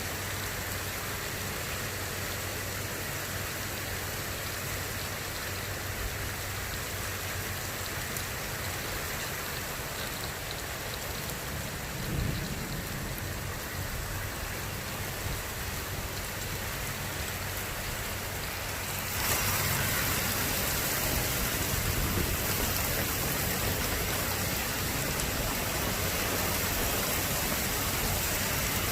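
Steady heavy rain during a thunderstorm, growing louder about two-thirds of the way through, with a short low rumble near the middle.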